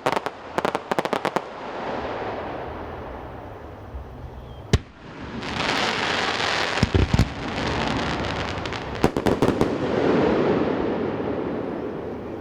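Fireworks display in a mountain valley: quick runs of sharp crackling reports near the start and again past the middle, a single loud bang, and a stretch of hissing crackle with a heavy boom. The bangs roll back as long echoes off the surrounding mountains.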